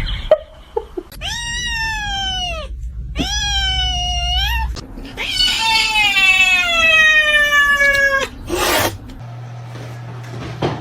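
A cat yowling: three long, drawn-out caterwauls, each falling in pitch, the last one about three seconds long. A short burst of noise follows near the end.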